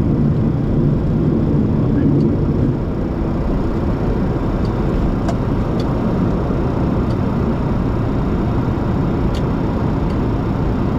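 Boeing 737-200 at takeoff thrust, heard from the cockpit: a steady, loud rumble of its Pratt & Whitney JT8D engines and rushing air, easing slightly about three seconds in, with a few faint ticks.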